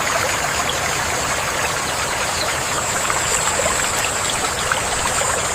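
Steady running water, a stream-like rush with a constant high hiss above it.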